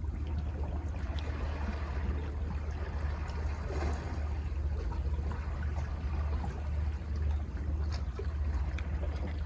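Sea water washing and trickling over rocks at the foot of cliffs, with a steady low rumble underneath and small splashes.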